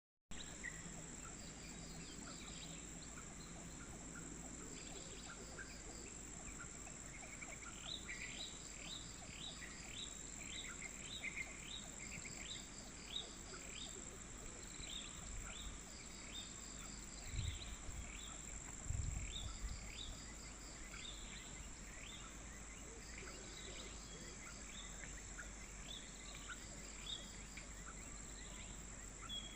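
Morning outdoor ambience: a steady high-pitched insect drone with pulsing insect trills, and birds chirping in runs of short, quick notes, busiest a third of the way in. A couple of low bumps come just past the middle.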